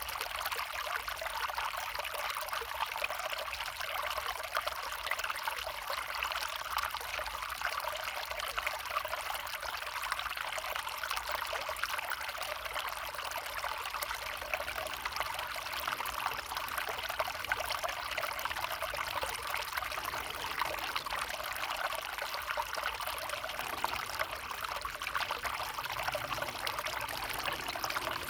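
A small stream running steadily, a continuous trickling rush of water.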